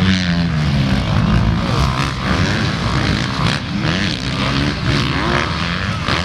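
Motocross bike engines revving, several overlapping, their pitch rising and falling as they accelerate and shift.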